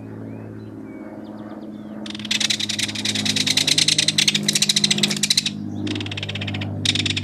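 Kingfisher calling in loud, rapid rattling bursts from about two seconds in: a long run, then two shorter bursts. Under it is a steady low hum.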